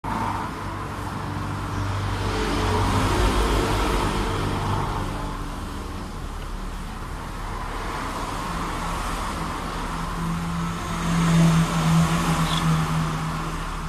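A motor vehicle engine running steadily with road noise, swelling louder about eleven seconds in.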